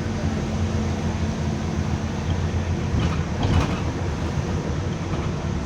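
Bus engine running with a steady low hum, and a brief rattling clatter about three and a half seconds in.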